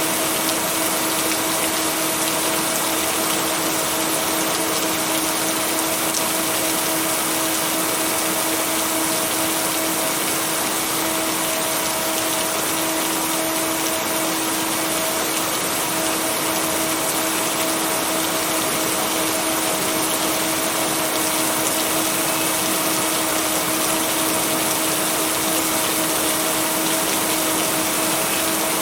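Steady heavy rain, an even hiss of falling water, with a steady low droning tone layered over it from the track's blended binaural-beat tones.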